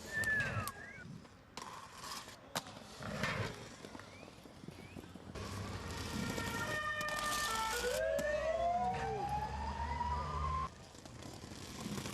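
Siren-like gliding tones, with a long rising wail from about eight seconds in, over a low hum and short bursts of noise.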